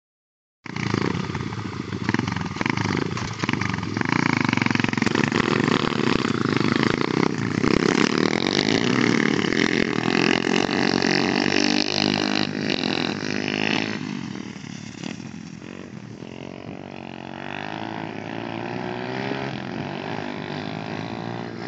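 Pit bike engine running loud, its pitch rising and falling, then dropping off after about 14 seconds and climbing steadily again toward the end.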